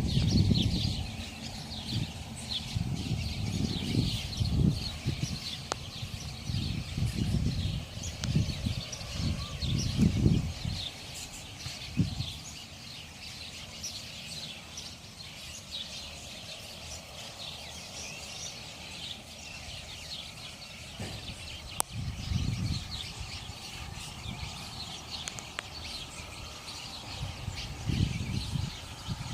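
A nesting colony of many small birds chirping and twittering constantly. A low rumble comes and goes, loudest in the first ten seconds.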